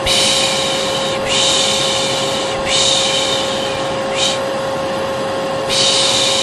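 A person's repeated 'shhh' shushing, about four long strokes of roughly a second and a half each with a longer break just past the middle, over the steady hum of a running vacuum cleaner with a constant whine. The shushing is the Turkish 'pış pış' hush used to soothe a baby, layered with vacuum noise as a calming background.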